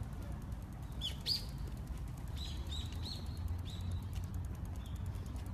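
Small birds chirping: short, sharp, falling chirps, a couple about a second in and then a quick run of them, over a steady low rumble.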